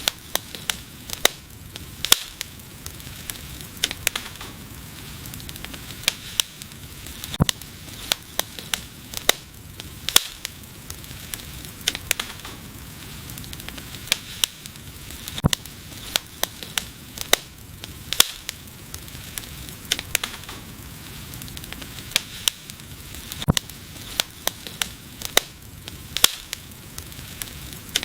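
Wood fire burning: irregular sharp crackles and pops, several a second, over a steady soft hiss.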